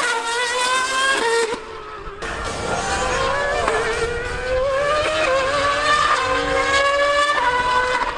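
High-revving racing engine accelerating hard, its pitch climbing steadily through each gear and dropping at each upshift, with a brief dip in level about one and a half seconds in.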